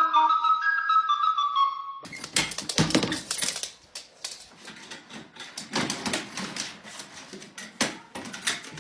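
A flute-like music melody for about two seconds, then an abrupt change to a run of irregular, rapid clicks and clattering knocks.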